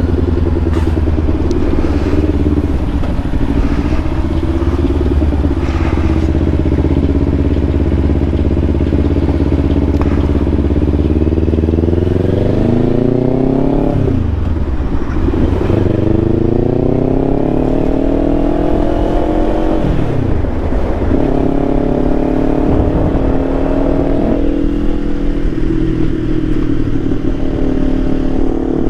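Kawasaki Ninja 500's parallel-twin engine under way, its pitch climbing and then dropping several times in the second half as the rider works up through the gears. A heavy low rumble fades out about twelve seconds in.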